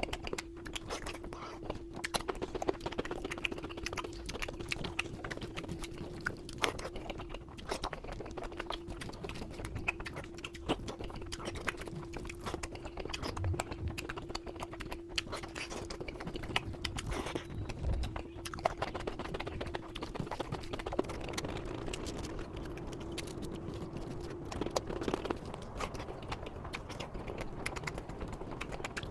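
Close-miked chewing and mouth sounds of a person eating, with many small wet clicks and smacks, over a steady low hum.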